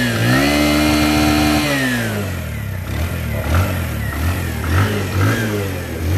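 Freshly rebuilt Bajaj Platina single-cylinder four-stroke motorcycle engine revved once: it rises, holds for about a second and a half, and falls back to idle. It then idles with a few short throttle blips.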